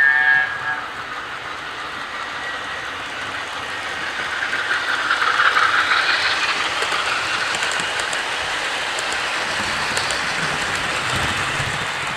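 Model Class 24 diesel locomotive with a DCC sound decoder running on the layout with its coaches: a steady rumbling rush of wheels on track mixed with the locomotive's engine sound, swelling about five to six seconds in as the train passes closest, with faint clicks over the rails.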